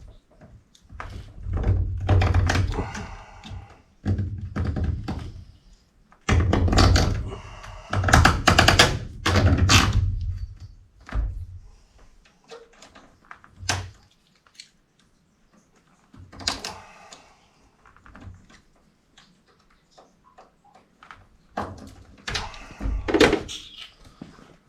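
Irregular thuds, knocks and rattling from hands-on work on copper refrigerant tubing and tools. The sound comes in several loud stretches with quieter gaps between them.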